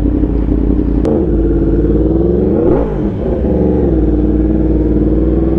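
Yamaha R1 motorcycle engine with an SC Project exhaust running at steady cruising revs, with wind on the microphone. Around the middle a second engine note briefly rises and falls over it.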